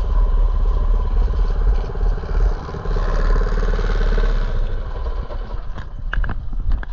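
Mini bike's small engine running with a fast, even putter. It eases off after about five seconds, and a few clicks and rattles come through near the end.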